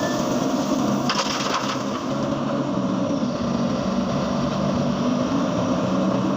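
Excavator diesel engine running steadily under work. A brief rushing, rattling noise comes about a second in.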